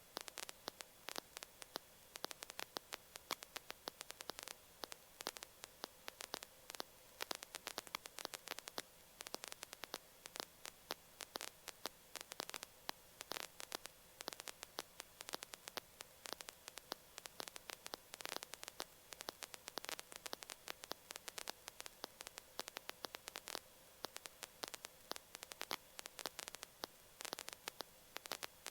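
Faint crackling static on a quiet cockpit intercom line: a steady patter of small clicks over a faint steady hum.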